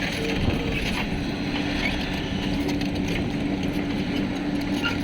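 A soil-hauling truck's engine running steadily, with an even mechanical drone and some faint rattling clicks.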